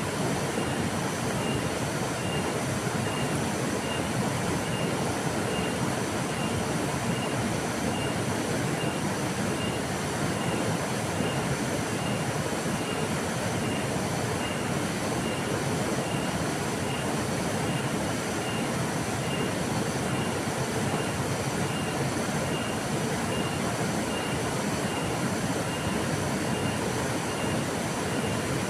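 Flowing river water rushing steadily, with no breaks or changes. A faint high pulse repeats a little under twice a second beneath it.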